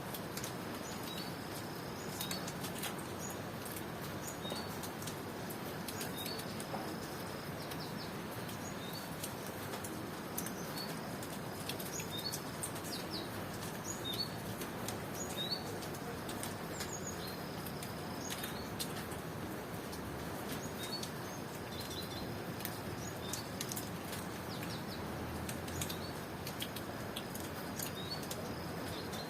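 Steady tropical rain falling, with scattered drips and patter, and birds giving short, high chirps throughout.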